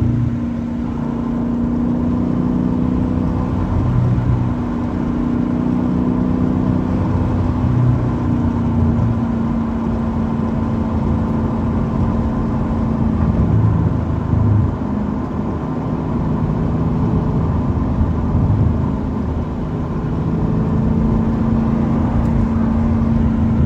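Straight-piped 6.4-litre 392 HEMI V8 of a Dodge Challenger Scat Pack, its exhaust droning steadily while cruising. The engine speed eases off slightly about nine seconds in and comes back up near the end.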